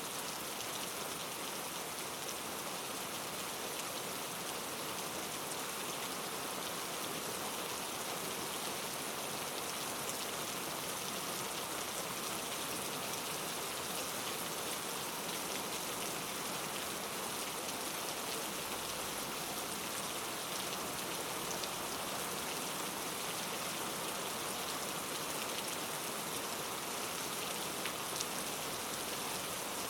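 Steady rain falling, with a constant even hiss and scattered individual drop ticks.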